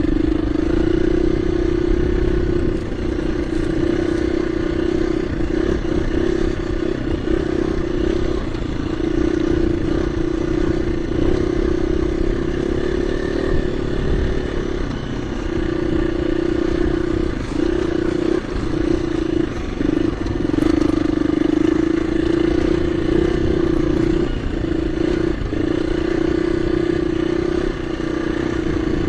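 KTM 350 EXC-F dirt bike's single-cylinder four-stroke engine running under load as it climbs a rutted lane. The engine note holds steady, with several brief dips where the throttle is eased.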